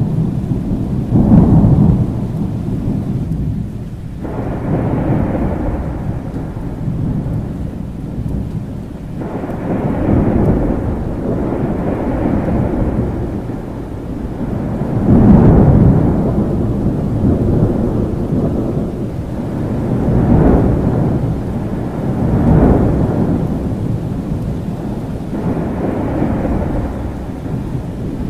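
Thunderstorm: rolling thunder rumbling almost without pause, swelling and fading in repeated waves, over steady rain. The loudest peals come right at the start and about fifteen seconds in.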